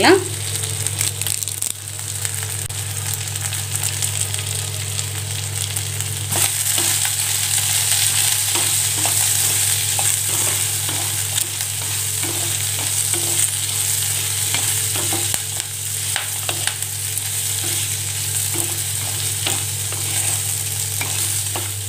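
Shallots, coconut pieces, whole spices and fresh curry leaves frying in sesame oil in a clay kadai, with a steady high sizzle and the scrape and knock of a wooden spatula stirring against the pot. The sizzle grows louder about six seconds in, over a steady low hum.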